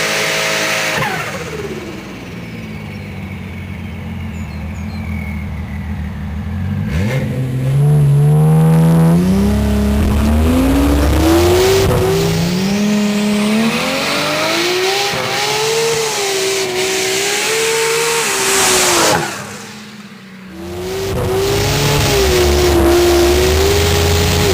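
Single-turbo Lexus SC300's 2JZ-GE inline-six running under load. The engine note falls away at first, then climbs steadily as the car accelerates hard for about ten seconds. It drops out sharply when the throttle closes, then comes back and holds a steadier pitch.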